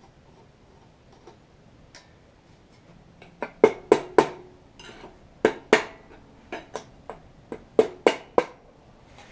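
About a dozen sharp metal-on-metal knocks in quick pairs and threes, beginning about three seconds in, from work on the rear brake and axle parts of a 1974 Saab Sonett III.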